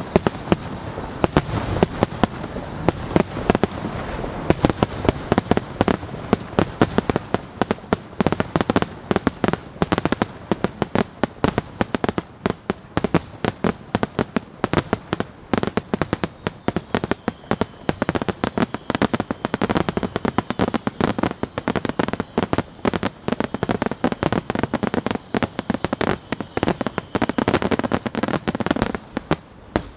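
Aerial fireworks in a finale barrage: a dense, continuous run of rapid bangs and crackles that stops abruptly near the end.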